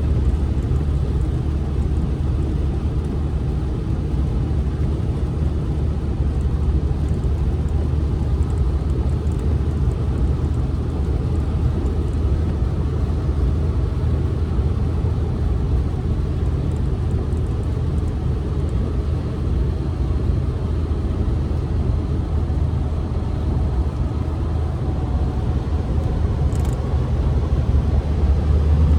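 Steady highway road noise heard from inside a moving car's cabin: a constant low drone of engine and tyres.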